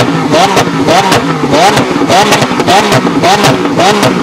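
Lamborghini Aventador SV's naturally aspirated V12 held at high revs while parked. Its pitch climbs and falls back about twice a second, as if bouncing off the rev limiter.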